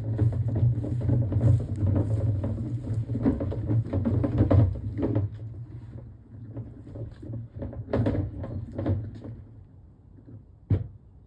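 Train running with a low rumble and irregular rattling and clatter, which dies away over the second half as it slows. There is one sharp knock near the end.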